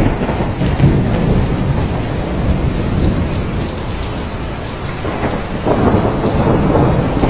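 Thunderstorm: steady heavy rain with a low rolling rumble of thunder underneath, easing slightly and then swelling again near the end.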